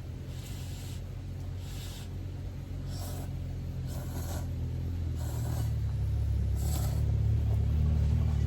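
A vehicle running: a steady low rumble that grows louder, with a faint hiss every second or so.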